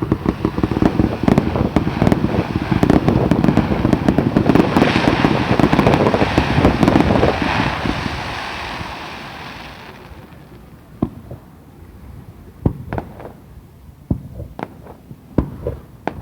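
Fireworks display: a dense rapid barrage of bursts and crackling for about the first eight seconds, dying away, then separate single bangs now and then toward the end.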